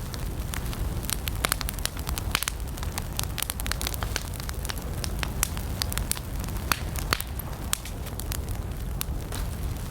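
Wood campfire burning, with frequent sharp, irregular crackles and pops over a steady low rumble of the flames.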